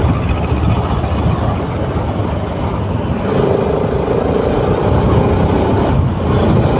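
Bajaj Pulsar RS200 single-cylinder engine running at road speed, heard from the rider's position with heavy wind and road noise. A steadier engine note comes up a little after three seconds in.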